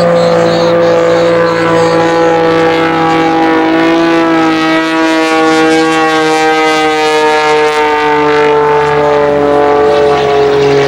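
Propeller airplane engine running hard, a loud steady drone whose pitch falls slowly throughout.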